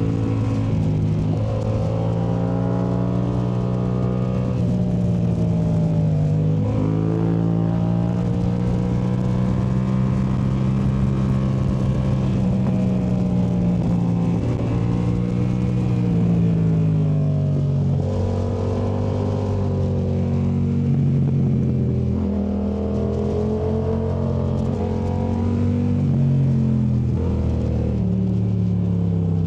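2019 Yamaha MT-07's parallel-twin engine through a Yoshimura AT2 race exhaust, ridden hard on a twisty road. The revs repeatedly climb on the throttle and fall away on the overrun into the next bend.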